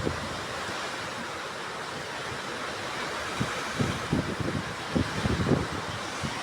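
Strong wind with heavy rain, a steady rushing hiss. In the second half, gusts buffet the microphone with irregular low thumps.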